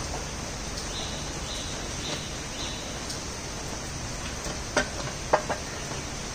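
Steady hiss of falling rain, with a few short high chirps in the first half and a few sharp taps about five seconds in, the loudest sounds.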